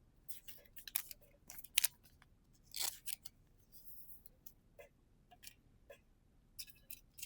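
Trading cards and foil booster packs being handled: a string of crisp clicks and short rustles, with a longer crinkling rustle about three seconds in.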